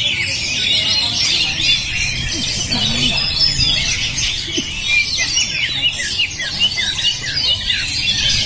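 Oriental magpie-robins (kacer) singing hard and without a break, a dense overlapping stream of quick chirps, short whistled glides and trills.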